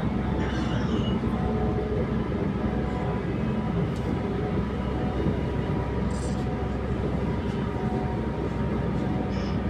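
Passenger train running between stations, heard from inside the carriage: a steady rumble with a faint constant hum.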